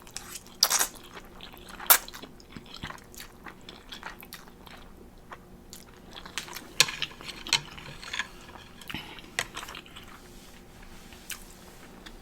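A person eating close to the microphone: chewing with scattered sharp, crunchy bites, a few standing out about a second in, two seconds in and in a cluster past the middle.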